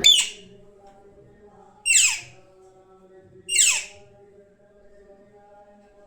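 Pet parrot giving three loud, harsh squawks about a second and a half apart, each sliding down in pitch.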